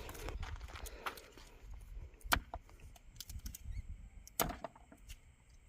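Two sharp knocks about two seconds apart, with a few fainter clicks and a steady low rumble beneath.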